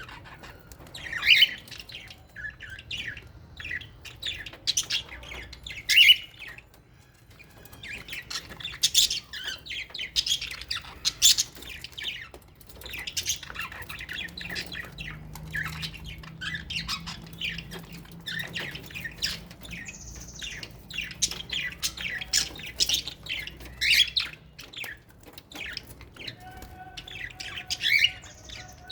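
A flock of small aviary parrots, lovebirds and budgerigars, chattering with a dense stream of short squawks and chirps, easing briefly twice.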